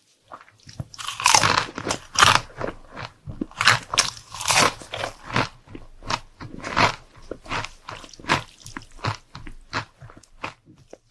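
A person chewing crunchy food close to the microphone: a run of loud, crackly crunches, about one or two a second, loudest a second or two in and growing fainter near the end.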